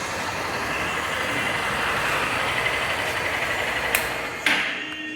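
Freshly rebuilt 160 cc motorcycle engine running steadily, with a sharp click just before 4 seconds in and a sudden louder burst about half a second later, after which the sound dies down.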